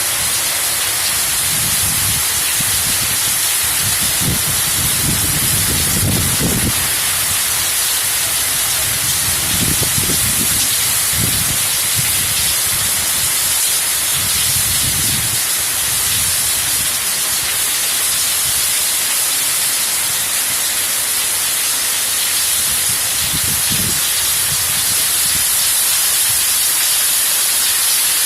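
Heavy rain falling, a steady dense hiss, with a low rumble swelling up now and then underneath.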